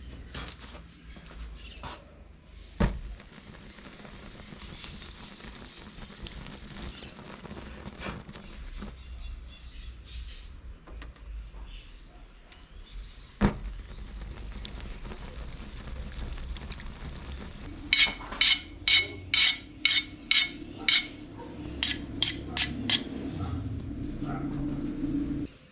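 Scattered knocks and clatter, then about a dozen sharp, ringing hammer blows on steel on an anvil, roughly two to three a second, over a steady low hum.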